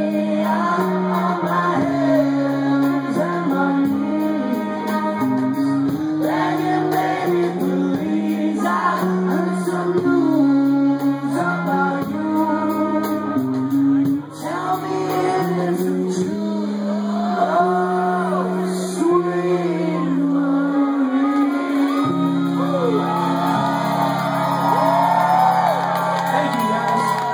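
A rock band playing live with a singer and backing shouts over guitar chords, finishing on one long held chord.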